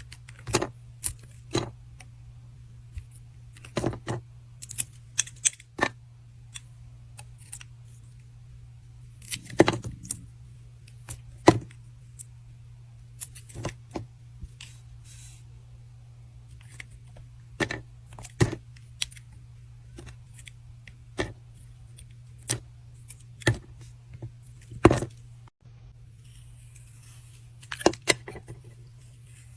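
Knife cutting through bars of soap: irregular crisp cracks and crunches, some in quick clusters and others a few seconds apart, over a steady low hum.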